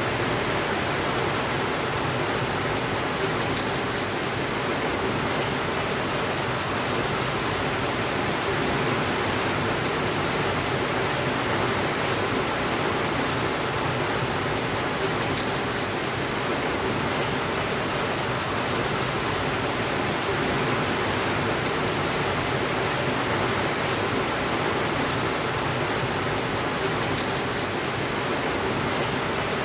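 Steady rainfall, an even hiss with no change in level, and a few faint high clicks now and then.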